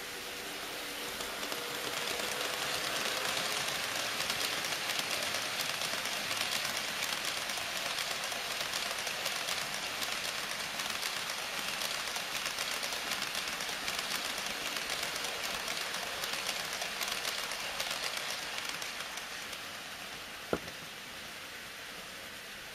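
HO-scale model freight train of tank wagons running past on the track: a dense rattle of small wheels clicking over rail joints that swells, holds, and fades away. A single sharp click sounds near the end.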